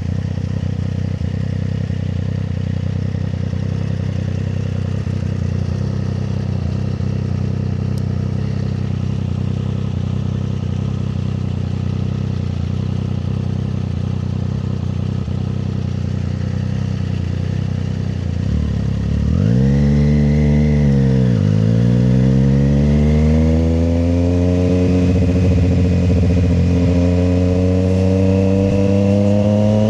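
Triumph Street Triple 765 RS inline-three engine running at a steady cruise. About two-thirds of the way in, the revs swing up and back down, and then the engine pulls with a steadily rising pitch as the bike accelerates.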